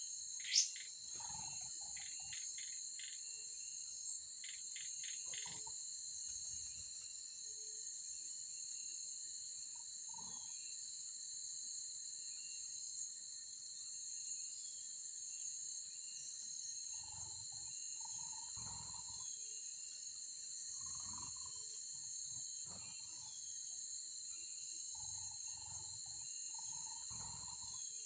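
Steady high-pitched insect chorus, with a few short bird chirps scattered through it and one sharp rising bird call about half a second in.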